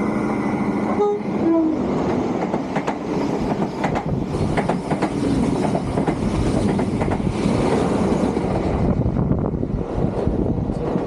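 A train horn sounds at the start, its pitch dropping about a second in, then a passenger train passes close on the adjacent track: a steady rush of wheel and wind noise with sharp clicks of wheels over rail joints, easing off near the end.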